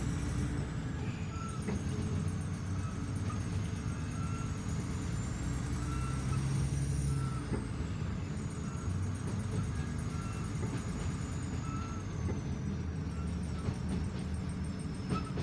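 Inside a commuter train carriage: the steady low rumble of the train running along the track, with a thin high whine that slowly rises and falls and short faint squeaks about once a second.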